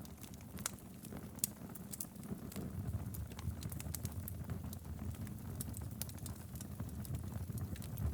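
Wood fire burning in a fireplace: a steady low rumble of flame with frequent sharp, irregular crackles and pops from the burning logs.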